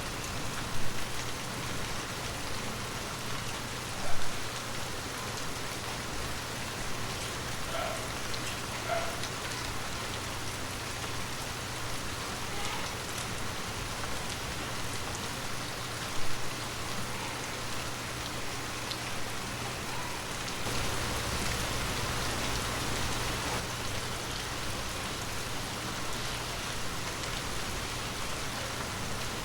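Heavy rain falling steadily, with three sudden louder knocks of drops or drips striking a surface and a brief swell in intensity about two-thirds of the way through. A faint steady low hum runs underneath.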